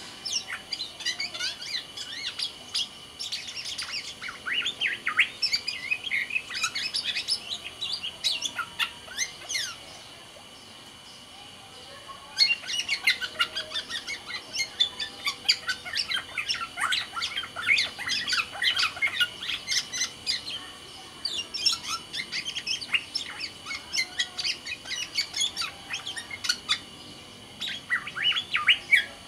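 Black-naped oriole (kepodang sumbawa) singing in long runs of quick, varied chirps and short whistles, broken by a pause of a couple of seconds about ten seconds in and briefer breaks later.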